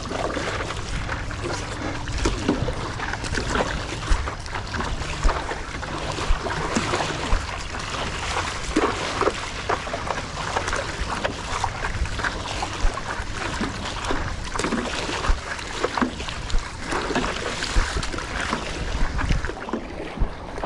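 Stand-up paddleboard paddle strokes in the water, about one a second, over steady water and wind noise on the microphone.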